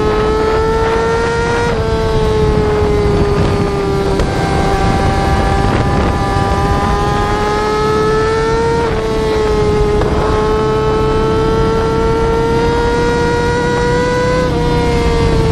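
Yamaha R6 inline-four engine at high revs under acceleration. The pitch climbs slowly in each gear and drops sharply at upshifts, three times: about two seconds in, near the middle and near the end.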